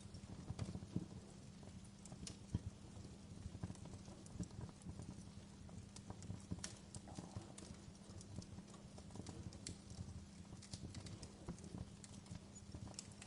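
Wood fire burning in a fireplace, crackling with frequent irregular pops and snaps over a low steady hum.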